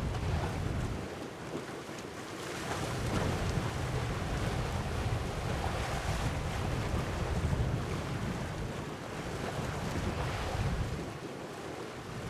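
Wind buffeting the microphone in gusts over a steady rush of sea waves; the low rumble of the wind eases briefly about a second in and again near the end.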